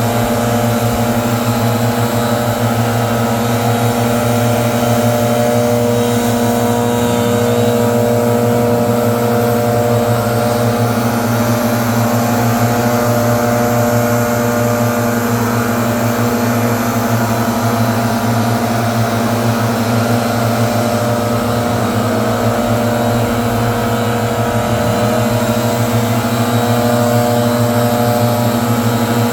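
Leaf blower running steadily, with a few brief shifts in pitch.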